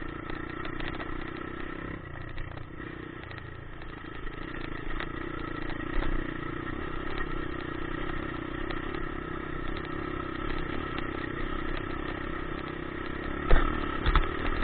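Dirt bike engine running steadily while riding, with a few sharp knocks, the loudest near the end.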